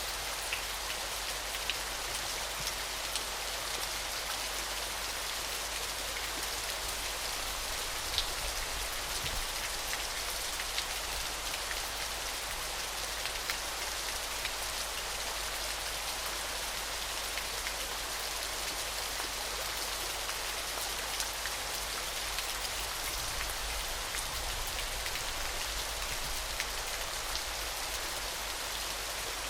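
Steady hiss of falling water, strongest in the high range, with many small scattered drop-like splashes.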